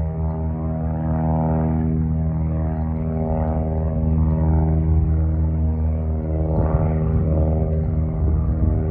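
Single-engine piston light airplane, its engine and propeller running steadily with a constant-pitch drone.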